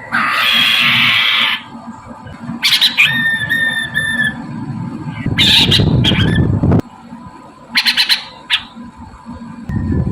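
Poksay mandarin laughingthrush calling: a loud harsh, rasping squawk at the start, a few short clear whistled notes about three seconds in, another harsh call near six seconds, and a quick run of sharp chips about eight seconds in.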